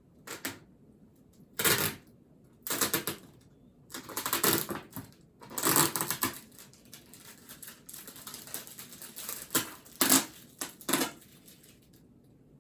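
Scratchy rustling on paper at a study desk, in a string of short strokes lasting from a fraction of a second to about a second, busiest in the middle.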